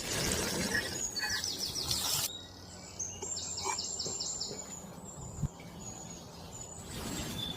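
A bird calling in two runs of quick, evenly repeated high chirps, over a rushing noise that fills the first couple of seconds and then drops away.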